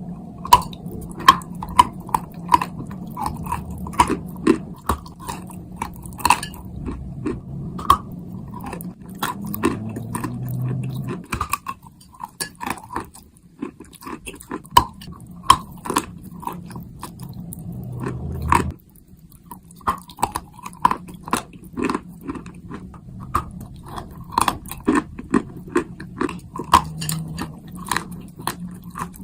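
Close-up biting and chewing of dry chalk and clay: sharp, crisp crunches a few times a second, with a couple of short pauses.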